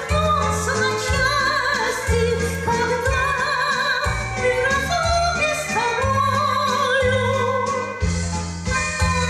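A song: a solo voice singing a melody with wide vibrato over an instrumental accompaniment with a steady, regularly changing bass line.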